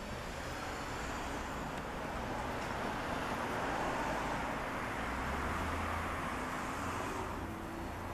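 Fire engine on the move: steady engine drone under a rushing road-and-wind noise, swelling in the middle and easing off near the end.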